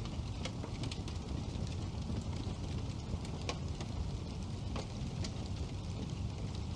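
Wood fire burning in a fireplace: a steady low rumble of the flames with sharp crackles and pops of the burning wood every second or so.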